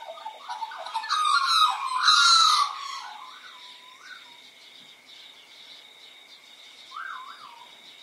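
Backyard birds calling: wavering whistled notes, with a loud, harsh squawking call from about one to three seconds in, and a short whistled phrase near the end.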